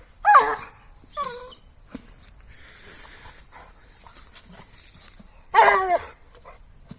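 A dog giving short, pitched yelping calls: a loud one right at the start, a weaker one about a second later, and another loud one near the end.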